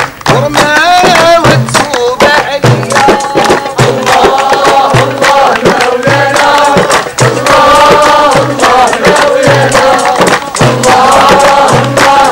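A group of voices singing a chant together over a steady low beat, about one and a half beats a second.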